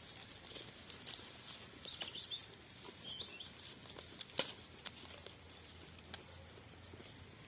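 Faint outdoor ambience with a few short bird chirps about two and three seconds in, over scattered light clicks and rustles, and one sharper click a little past four seconds.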